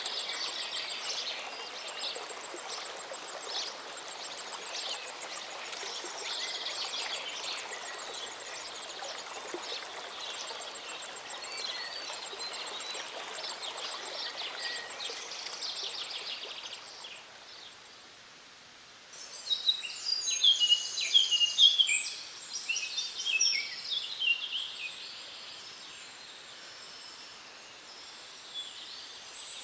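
Small mountain stream running, with many birds chirping and singing over it. About seventeen seconds in the water sound drops out, and after a short lull a bird sings loudly in quick phrases, then fades.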